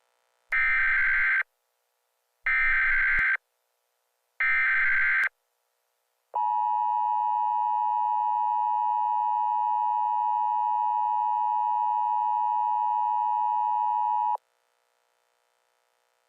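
Emergency Alert System broadcast tones: three short, harsh digital data bursts about two seconds apart, then the steady two-tone attention signal held for about eight seconds before it cuts off.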